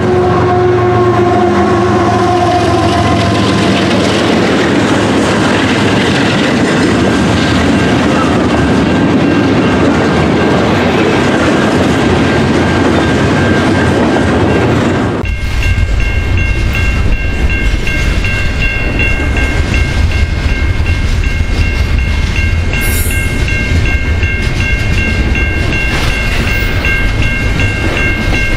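Double-stack intermodal freight cars rolling past close by: a steady, loud rumble and clatter of steel wheels on the rails. About halfway in, the sound shifts to a heavier low rumble, with a steady high-pitched ring over it.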